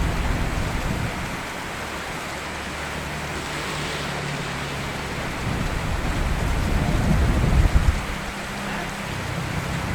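Steady rain falling, with a low rumble that swells and then fades about seven seconds in.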